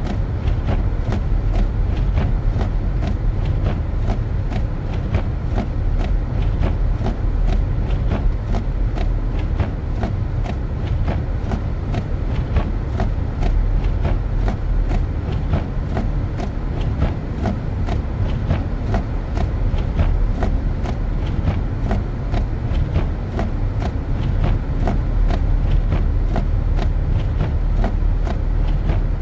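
Car driving on snow-covered streets: a steady low road and engine rumble, with frequent small sharp clicks and crackles throughout.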